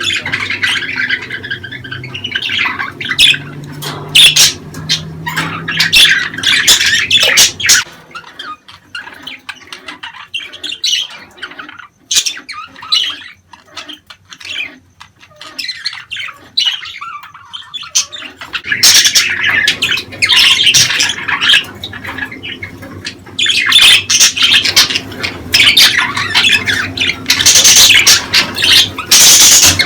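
A flock of budgerigars chattering, with squawks and chirps. The chatter thins to scattered quieter calls about a third of the way in, then grows dense and loud again in the last third.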